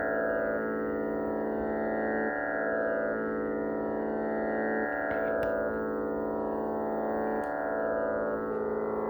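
Radel "Magic Plus" digital tanpura playing its continuous drone, a layered buzzing sound of sustained string tones. The notes change in a repeating cycle about every two and a half seconds, as each simulated string is plucked in turn.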